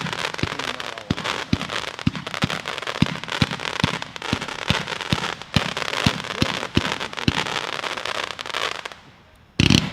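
A 49-shot, 500-gram consumer fireworks cake firing. A quick, even run of launch thumps comes about two to three a second under continuous crackling bursts. The thumps stop a little past halfway and the crackle dies away, then one sharp bang comes near the end.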